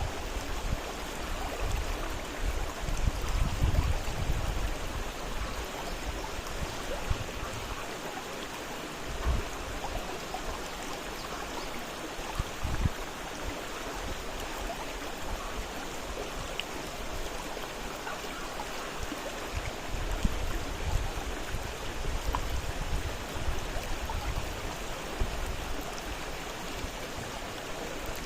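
Fast-flowing river water rushing steadily, with the low rumble swelling and easing now and then and a few brief low thumps.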